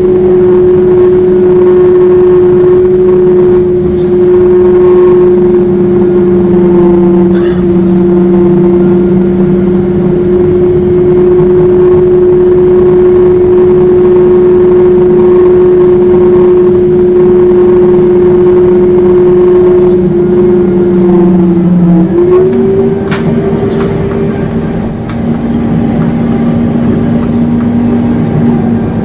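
Scania K230UB bus running with a loud, steady howling whine over its engine noise. About 22 seconds in the whine dips briefly, then settles at a higher pitch.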